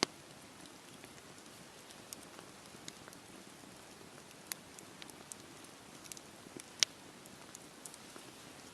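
Campfire burning with a soft steady hiss and irregular sharp crackles and pops, the loudest about seven seconds in.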